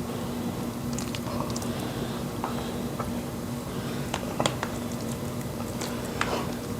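Eating fufu and pepper soup by hand: soft squishing and scattered small clicks as the dough is pinched off and dipped, over a steady low hum.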